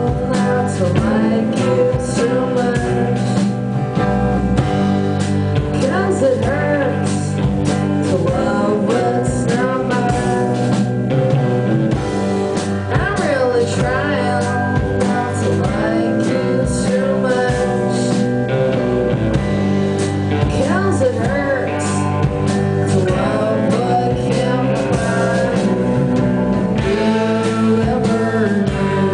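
Live rock band playing a song: guitar, bass and drum kit, with a singing voice over them.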